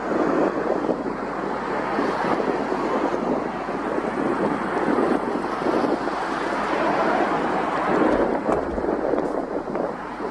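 Jet engines of a departing Airbus A330-200 airliner at takeoff thrust: a steady, rushing roar, with a brief deeper rumble about eight seconds in.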